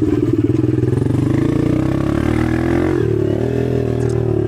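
Dirt bike engine running while being ridden, heard from on board. The engine note shifts about three seconds in, then rises and eases off again as the throttle changes.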